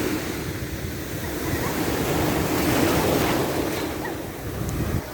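Ocean surf: waves washing on the shore as a steady rush that swells about two to three seconds in and eases toward the end.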